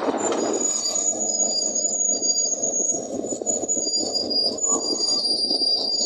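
Bulldozer working, its engine running steadily under load, with high-pitched metallic squealing from its steel crawler tracks coming and going throughout.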